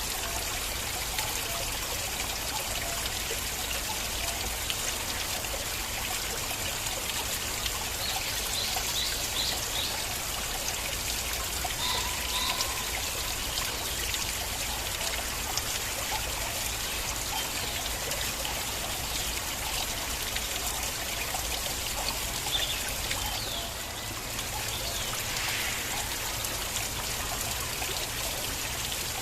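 Water flowing and trickling in a stream, with a steady babble. A few faint chirps sound over it now and then.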